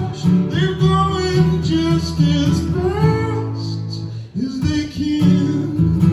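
Live rock band playing, with guitar and a sung vocal line over it; the music dips briefly a little past four seconds in, then comes back.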